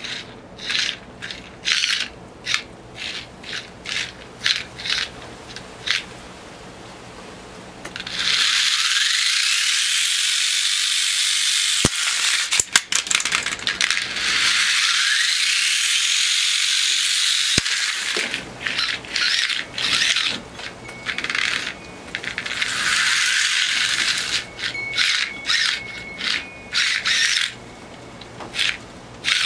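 Small combat robot's weapon being tested: short sharp clattering knocks, then three long stretches of high-pitched whirring, rising in pitch as the weapon spins up.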